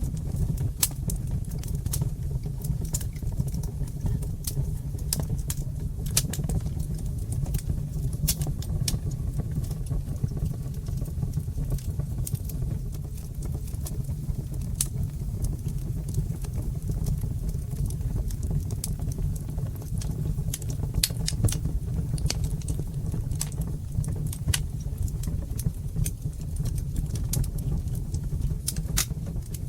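Wood fire crackling: irregular sharp pops and snaps, sometimes several close together, over a steady low rumble of the flames.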